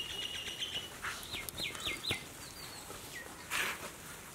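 Bird chirps: one high held note, then a quick run of four short falling chirps, with a few more chirps after it. A short rustle comes about three and a half seconds in.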